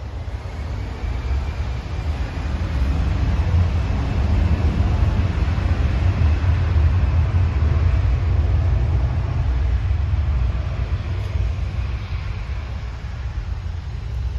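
Jet aircraft taking off from a nearby airport: a deep rumble that swells over several seconds, peaks, then slowly fades, with a faint whine that rises and falls in pitch as it passes.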